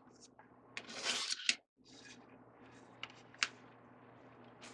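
Ribbon and bow-making tools being handled: a rustling scrape about a second in, then two light clicks.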